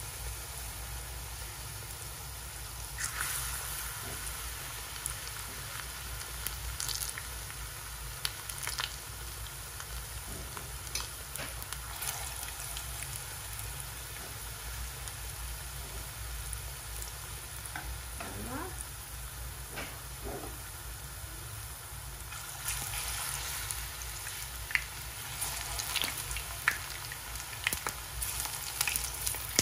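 Plantain slices shallow-frying in hot oil in a non-stick pan: a steady sizzle, with scattered clicks of a fork against the pan as pieces are lifted out and laid in. The sizzle grows louder about three quarters of the way through as more raw slices go into the oil.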